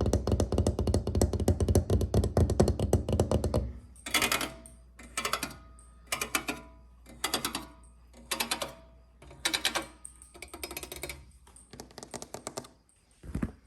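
ASMR tapping and scratching on an object: a dense run of quick taps for about the first four seconds, then short bursts of fast tapping about once a second.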